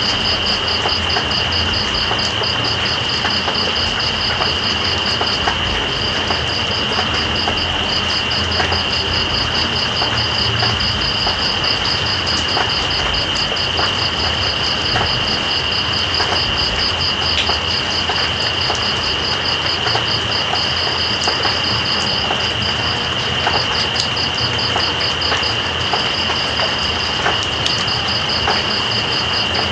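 Steady rain, with scattered drops ticking, under night insects: one steady high trill and another rapidly pulsing one above it.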